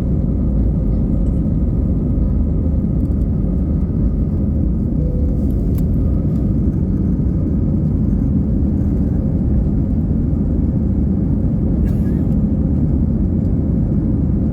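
Steady low rumble of jet engines and rushing air heard inside an airliner cabin during the climb after take-off, with a faint steady hum above it.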